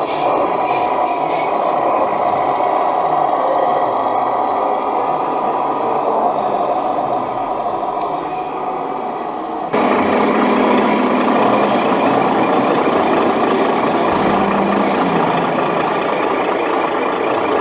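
Truck engine sound running steadily, most likely from the RC truck's electronic sound module. About ten seconds in the sound changes abruptly and gets brighter.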